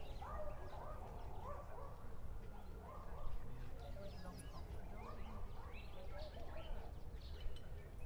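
Short bird calls repeated about once a second, with higher chirps above them, over a low steady outdoor rumble.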